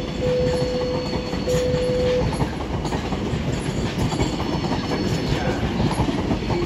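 London Overground Class 710 electric multiple unit moving slowly along the platform: a steady rumble of wheels on the rails, with a steady tone that breaks up and stops about two seconds in.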